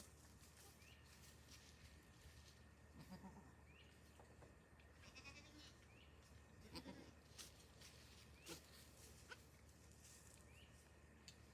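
Faint, soft goat bleats: two or three short low calls, about three seconds and about seven seconds in, over a quiet background with light clicks and a small high chirp recurring every second or two.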